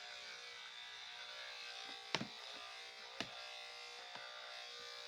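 Electric dog grooming clippers running with a steady buzz, cutting through a dog's coat, with a few sharp clicks, the loudest about two seconds and three seconds in.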